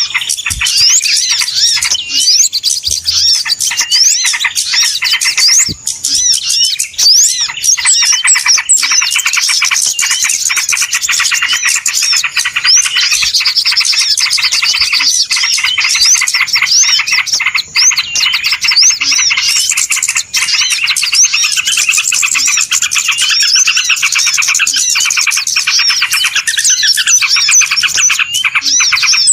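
A dense chorus of many small birds chirping rapidly and without pause, the calls high-pitched and overlapping: a bird-lure recording of busy, noisy birds, used to attract wild birds.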